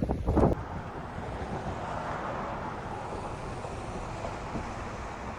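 A brief loud, low buffeting at the start, then a steady rushing noise with no pitch. It sounds like outdoor storm footage.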